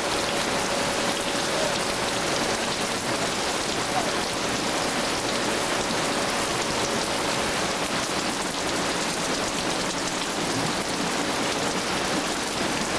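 Heavy rain falling steadily in a dense, even hiss, described as a wall of water.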